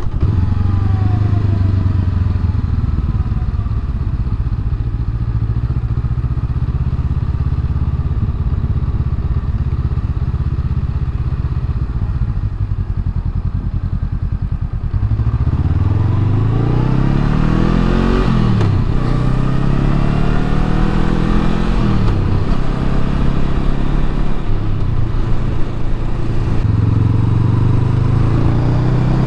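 Honda Rebel 500's parallel-twin engine through its stock muffler, holding a steady cruise at first, then from about halfway accelerating with rising revs broken by about four upshifts, each a sudden drop in pitch.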